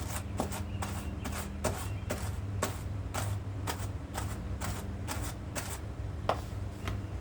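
Hand carders brushing soft dog undercoat fur: repeated scratchy strokes of the wire teeth through the fibre, about two or three a second, over a steady low hum.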